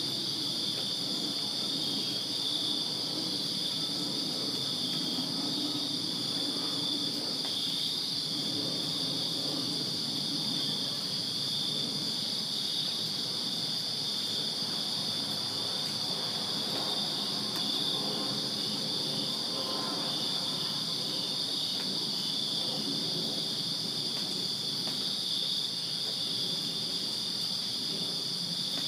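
Night chorus of crickets chirping steadily: a continuous high trill with a second, pulsing chirp just below it, over a faint low background hum.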